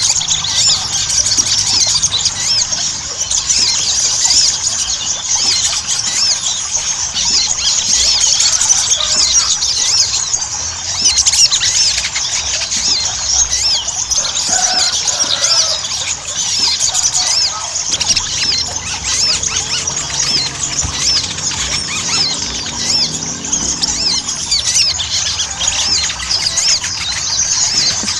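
Sogon (sogok ontong) sunbird singing continuously in full song: a dense, unbroken stream of rapid, very high-pitched twittering notes.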